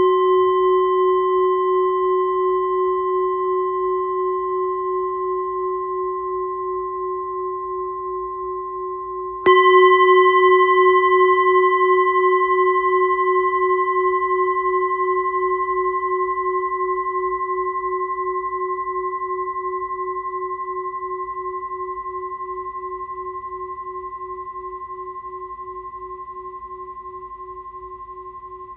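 Singing bowl ringing, struck again about ten seconds in, then a long ring that slowly fades with a steady pulsing wobble.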